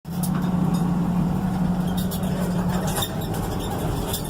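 Car running as it is driven, heard from inside: a steady low hum that drops away about three seconds in, with light clicks and rattles over it.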